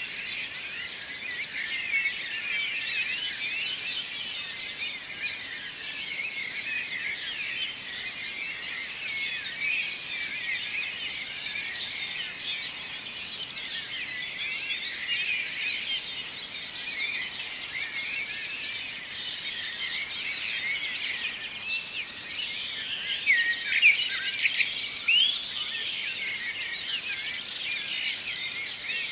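Dawn chorus: many songbirds singing and chirping at once in a dense, continuous tangle of short notes, with a few louder, closer calls near the end.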